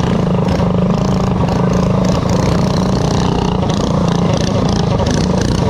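Predator 212 mini bike engine, a small single-cylinder four-stroke, running at a steady speed without revving.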